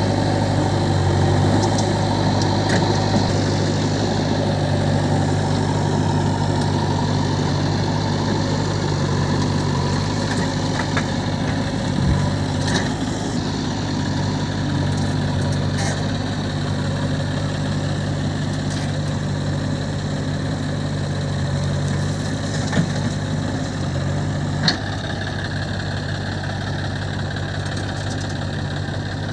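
Diesel engine idling steadily, with a few short clicks or knocks here and there.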